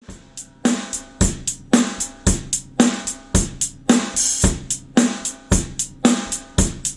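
Drum kit playing a steady beat as a snare drum sound test: kick drum and snare drum alternate, each about once a second, with hi-hat between. Each snare hit rings on with a clear tone.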